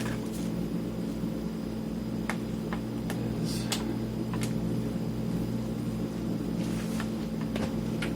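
Steady low electrical hum, with a few faint clicks and taps as small items are handled.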